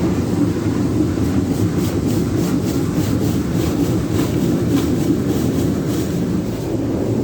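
Jim Coleman Water Wizard 1.0 automatic car wash running: a loud, steady low rumble, with a faint, quick, repeated ticking hiss through most of it.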